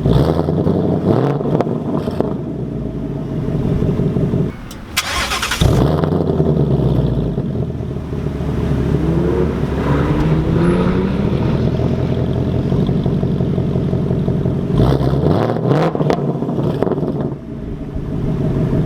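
2019 Mustang GT's 5.0-litre V8 through the factory active exhaust with a resonator delete and H-pipe, idling and being revved to about 2,000 to 3,000 rpm in several rising sweeps. It is shut off and started again with a flare about five seconds in, and again near the end.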